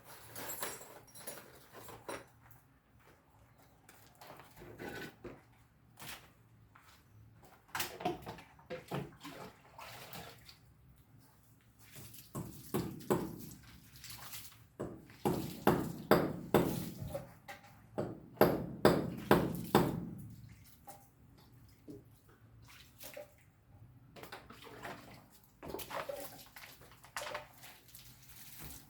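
Wet cement mortar being scraped and slapped with a hand tool during block laying. The strokes come irregularly, then in a quick, louder run of about two to three a second in the middle.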